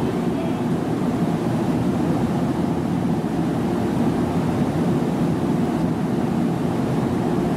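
A JR 787 series electric limited express train standing at the platform, its onboard equipment running with a steady, even hum.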